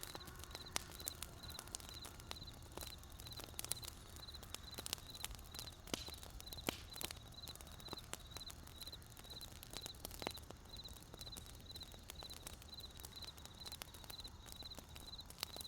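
Wood campfire crackling with sharp, irregular pops, while a cricket chirps steadily in a high pitch, about two to three chirps a second.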